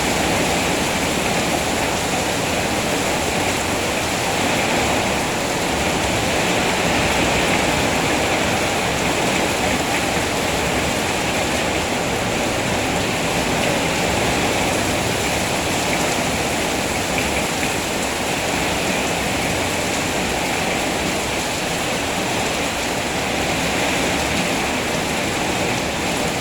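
Steady rain falling, a continuous even rushing hiss with no single drops standing out.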